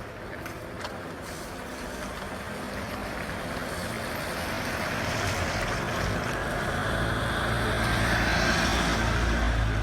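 A motor vehicle approaching and passing close on the street. Its engine rumble and road noise grow steadily louder, loudest near the end.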